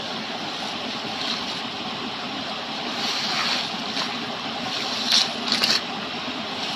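Steady rushing of a flowing stream, with a few short, sharper sounds about five seconds in.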